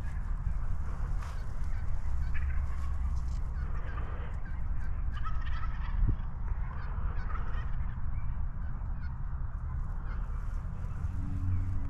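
Large birds calling in scattered short bursts over a steady low rumble.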